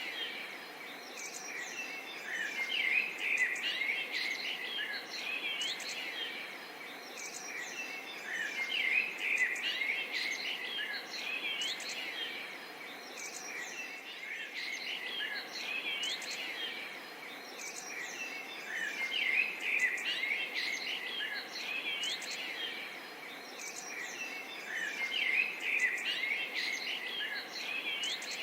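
Forest and swamp ambience: many birds chirping and calling over a steady insect background, the chorus swelling and easing every six seconds or so.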